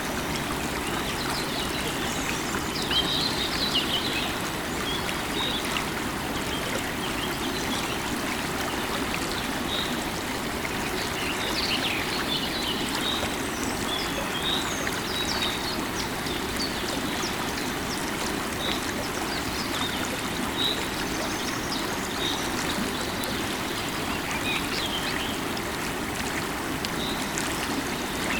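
Running river water flowing steadily, with small birds chirping in short calls throughout, busiest about three seconds and about twelve seconds in.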